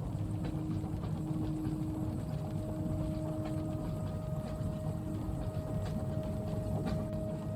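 Steady low rumble of a moving train carriage, with scattered light ticks of rain, and a few faint held hums over it.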